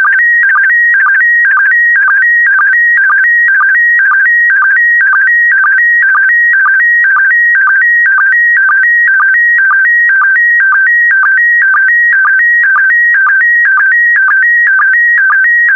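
PD120 slow-scan television (SSTV) signal: a loud, high electronic warble flicking between two close pitches, broken by a short lower blip about twice a second. The warble carries the picture's brightness and colour line by line; each blip is a line-sync pulse.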